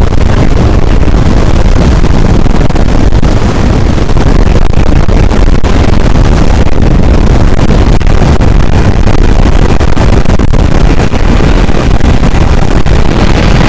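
Strong wind buffeting the microphone: a loud, steady, rumbling roar with no let-up.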